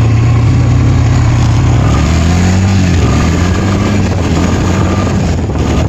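Honda Recon 250 ATV's single-cylinder engine running as it rides, with the engine note dropping lower about two seconds in. Heavy wind noise rushes over the microphone.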